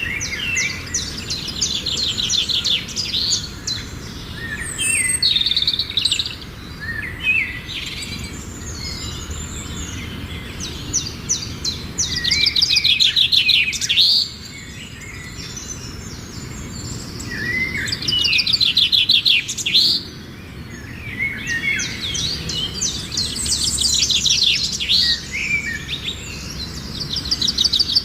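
Birds singing: repeated phrases of fast, high trills and chirps, over a steady low background noise.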